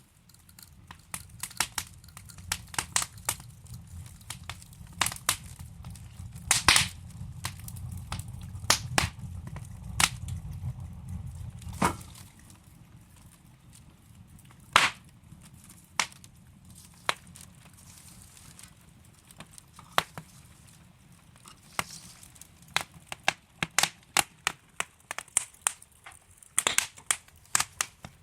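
Wood fire crackling: logs burning in a fireplace with irregular sharp pops and snaps, some loud, over a low rumble of flame that dies away about twelve seconds in; the popping grows busier near the end.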